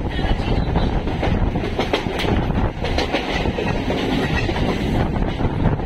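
Electric multiple-unit suburban local train running at speed, heard from on board: a steady rumble and rush of wheels and air, with a few clicks of the wheels over rail joints about two seconds in.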